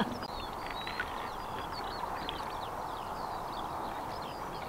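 Small birds singing in quick, high chirps and trills over a steady background hiss.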